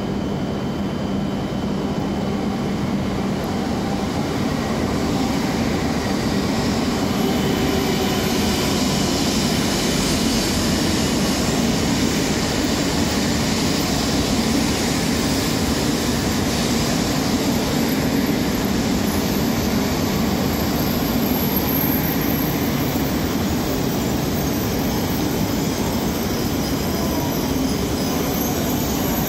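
E2 series Shinkansen train pulling into the platform: a steady rumble of wheels on rail, with a faint high whine above it.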